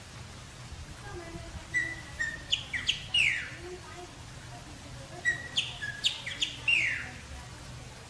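A black songbird singing two similar phrases about three and a half seconds apart, each a short whistled note followed by quick down-slurred notes and ending in a longer falling whistle.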